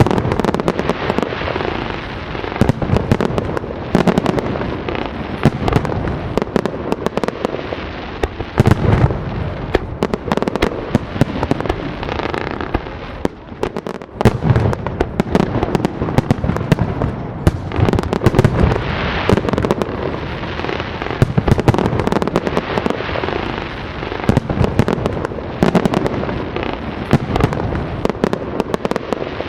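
A firework display: a continuous volley of sharp bangs and crackling, with deeper booms every few seconds and a short lull about halfway through.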